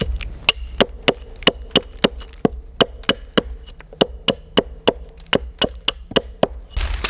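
A blade chopping on wood in a steady rhythm, about four sharp strikes a second, stopping shortly before a loud hissing crackle starts near the end.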